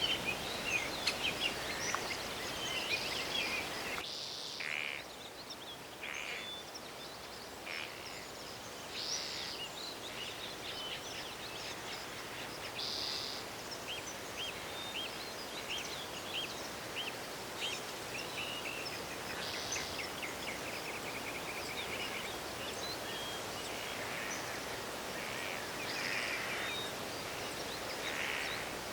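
Forest birds chirping and calling, many short high notes and quick trilled series, over a steady background hiss that drops abruptly about four seconds in.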